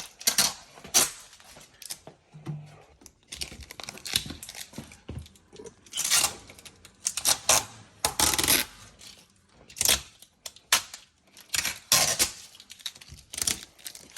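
Irregular crackles and rustles of plastic protective film and packaging being peeled and torn off the inside of a new fridge freezer, with light rattles of handled plastic fittings.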